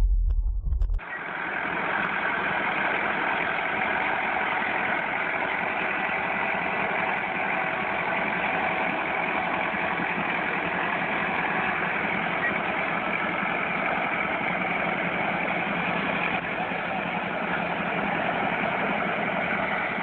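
A loud low rumble cuts off about a second in, followed by steady, unchanging vehicle running noise, an even hiss-like drone without rises or falls.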